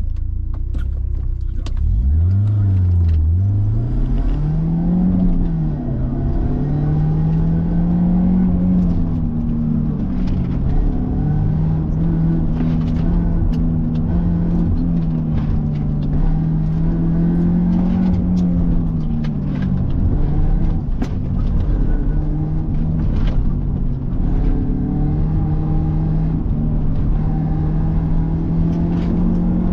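BMW E36 318ti's four-cylinder engine heard from inside the cabin, revving up hard as the car launches about two seconds in, then held at high revs through the slalom, its pitch dipping and climbing again with each gear change and lift. Sharp clicks and knocks come through now and then.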